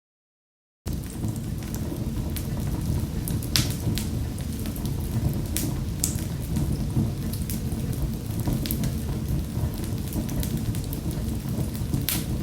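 Fireplace fire burning with a steady low rumble and scattered sharp crackles and pops, the loudest about 3.5, 6 and 12 seconds in. The sound is cut to silence for about the first second.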